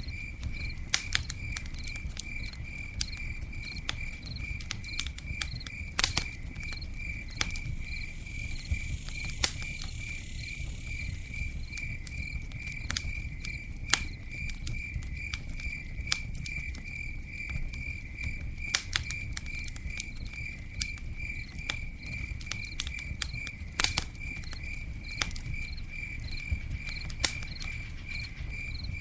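Campfire crackling, with irregular sharp pops over a low rumble and a brief hiss about a third of the way in. A cricket chirps in a steady, evenly spaced pulse behind it.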